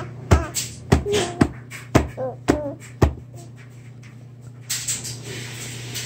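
A baby making a run of sharp mouth pops, about two a second, with short squeaky voice sounds between them, going quieter after about three seconds.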